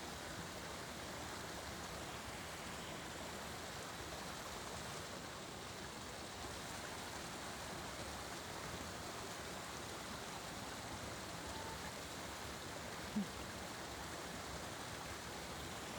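Steady rushing of running water, with one brief short sound about thirteen seconds in.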